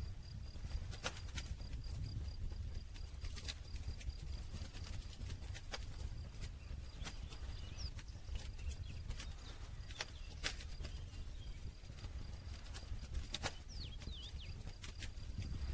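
Wood campfire burning: irregular sharp crackles and pops from the burning logs over a low steady rumble of the flames.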